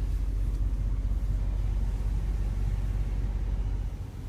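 Steady low rumble inside a car's cabin, dipping briefly near the end.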